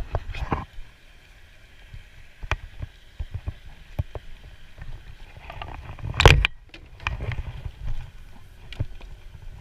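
Scattered knocks and clicks of gear against a fishing kayak, over a faint steady hiss, with one loud thump about six seconds in.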